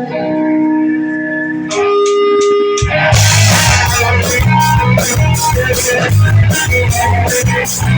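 Live band playing a song. Held notes come first, then a few quick sharp hits. About three seconds in, the drums and bass come in, and the full band plays on with a steady beat.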